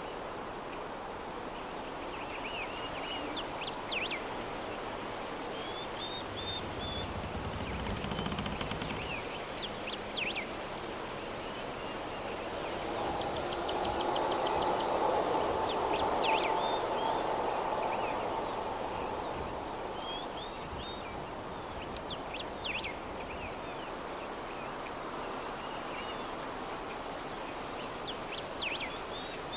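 Soft, steady breeze with birds chirping on and off outdoors. The sound swells louder for a few seconds around the middle.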